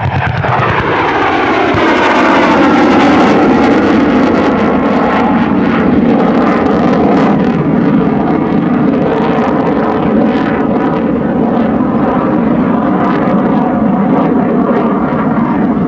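F-100 Super Sabre jet making a fast pass: a loud jet roar whose pitch slides down as it goes by in the first two seconds, then a steady roar.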